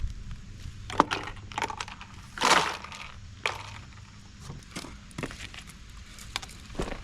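Scrap copper and metal pieces being handled and pried at by hand: irregular clicks and knocks, with a louder short scraping crunch about two and a half seconds in.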